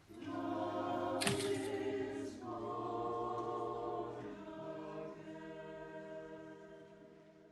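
A choir singing long held chords that change twice in the first few seconds, then fade away near the end.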